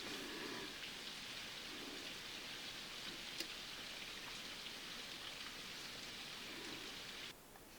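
Steady rain falling, an even hiss with a few light clicks or taps, one sharper than the rest about three and a half seconds in. The rain cuts out suddenly near the end.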